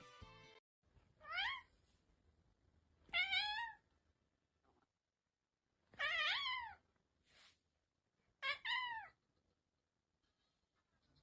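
A cat meowing four times, a couple of seconds apart, each call rising and then falling in pitch.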